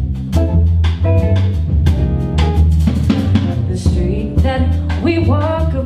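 Jazz band playing an instrumental passage: a drum kit with snare, rimshots and bass drum over a low bass line, with a pitched melody line coming in near the end.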